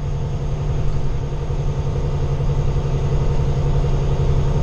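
Semi truck's diesel engine running steadily with road noise, heard from inside the cab.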